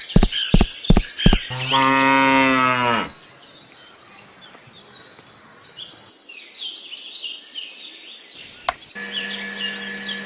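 A quick run of sharp knocks, then a cow mooing once for about a second and a half. Birds chirp after it, and about nine seconds in a small DC gear motor starts with a steady hum, turning the belt drive of a miniature hand pump.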